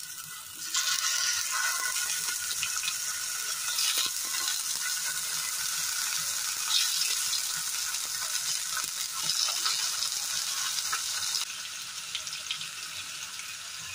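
Whole tomatoes sizzling in hot mustard oil in a frying pan as they are laid in one by one, a steady hiss with small pops. The sizzle jumps up about a second in and falls to a lower level near the end.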